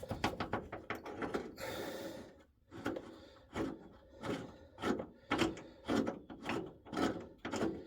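Hand ratchet working a shock-absorber mounting bolt that is still threaded and not yet free: a quick run of clicks and scrapes, then after a short pause repeated short strokes about every half second.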